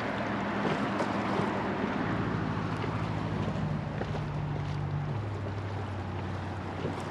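River water rushing and splashing around a floating raft, a steady haze of moving water with small splashes. A low steady hum runs underneath it and drops in pitch twice.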